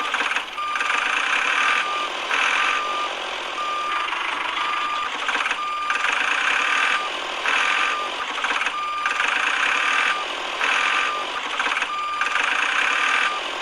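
Reversing beeper sounding a short single-pitched beep about once a second over a steady, noisy machine sound.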